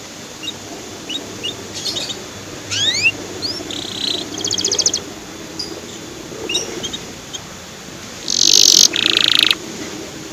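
Canary singing: short chirps and upward-sweeping whistles, a rapid trill about four and a half seconds in, and loud harsh buzzy notes near the end, over a faint low steady hum.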